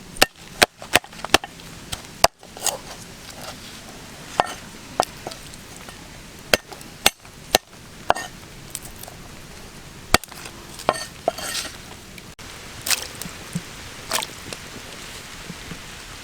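A blade chopping: sharp, irregular strikes, a quick run of them at first, then spaced a second or two apart.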